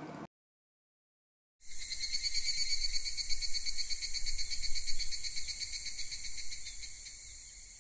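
Crickets chirping in a steady, rapid high trill. It starts about one and a half seconds in after a moment of silence and fades out slowly near the end.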